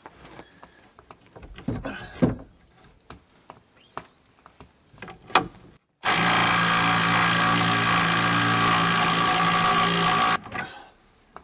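Knocks and handling noises, then a small cordless impact driver hammering a 10-inch lag bolt into a log. It starts abruptly about six seconds in, runs steadily for about four seconds, and cuts off suddenly. The little impact is not strong enough to drive the bolt all the way through.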